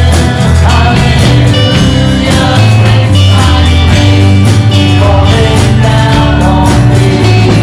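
Live worship band music with singing: a steady beat, bass and guitar under sung vocal lines.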